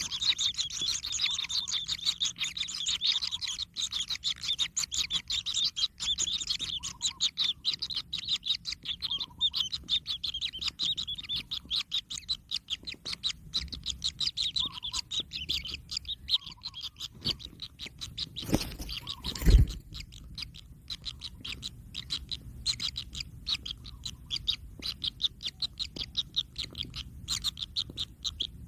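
Kingfisher chicks giving rapid, continuous high-pitched begging chirps, busiest in the first third. About two-thirds of the way through there is a single loud thump, the loudest sound.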